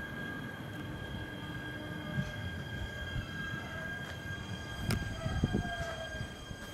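JR East E129 series electric train slowing as it pulls into the platform: a steady high whine with a tone that falls in pitch as it brakes. A sharp click about five seconds in, followed by a few low thumps of wheels over rail joints.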